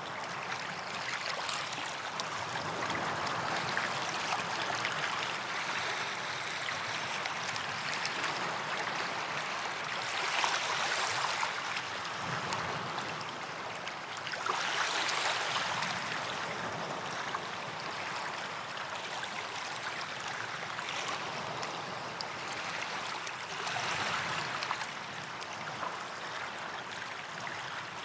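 Small waves washing onto a sandy beach, a steady hiss of surf that swells and eases every few seconds as each wave breaks and runs up the sand.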